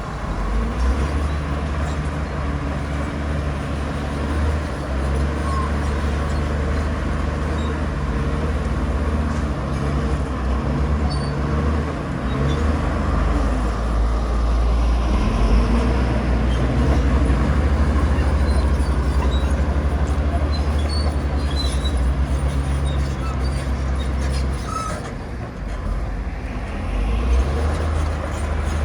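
Heavy diesel engine of earthmoving machinery running steadily, with a brief drop in level about 25 seconds in before picking up again.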